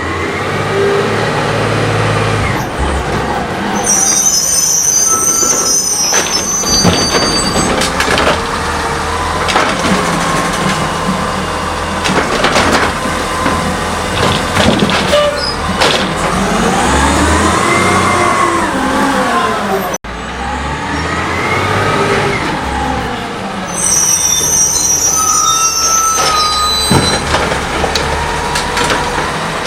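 CNG-fuelled Heil Scorpion automated side-loader garbage truck working its lift arm. The engine rises and falls in pitch as it drives the hydraulics, with high hydraulic squeals and clanks of the arm and cart. There are two such cycles, with a sudden cut between them about two-thirds of the way through.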